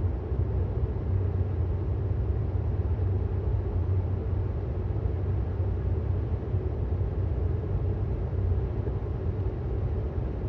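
Steady road and tyre noise heard inside the cabin of a 2018 Tesla Model S 75D driving along, a low even rumble with a faint hum and no engine note.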